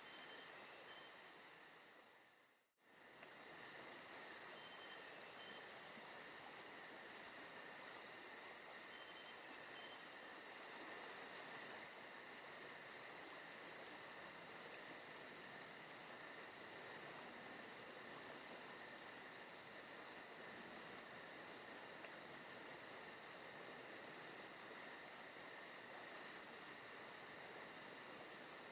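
Faint forest-night ambience of crickets and other insects chirring in a steady, fast pulse. About two and a half seconds in it fades out briefly and comes straight back, like the seam of a looped recording.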